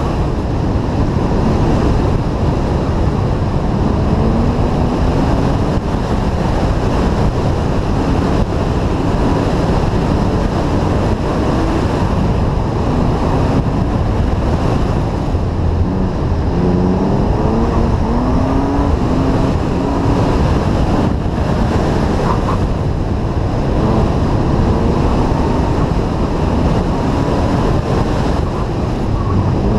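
1998 BMW E36 M3's straight-six engine rising and falling in pitch as the car accelerates and slows through an autocross course, under heavy wind rumble on the microphone.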